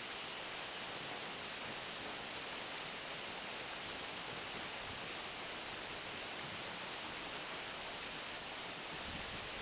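Steady rain falling, a constant even hiss with no separate drops or changes standing out.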